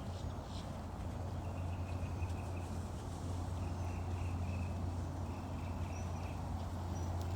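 Outdoor ambience: a steady low rumble, with a faint run of short, high, repeated chirps from a bird calling between about one and a half and five seconds in.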